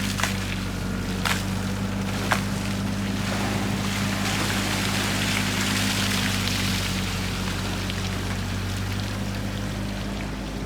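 A motor running at a steady hum under a constant rushing hiss of water, with a few sharp clicks in the first two or three seconds.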